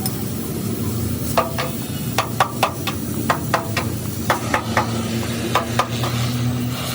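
Metal being struck in quick runs of two to four sharp taps, each with a short metallic ring, over a steady low hum.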